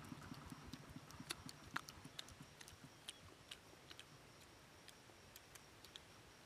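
Faint scattered clicks and smacks of someone eating grilled fish by hand and chewing, with a fast low pulsing that fades out in the first second.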